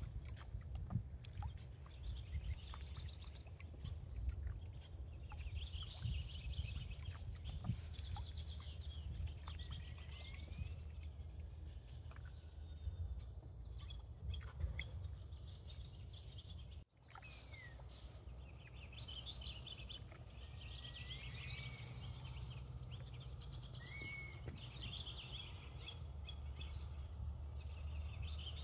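Small birds chirping and calling now and then, some calls sliding in pitch, over a steady low rumble.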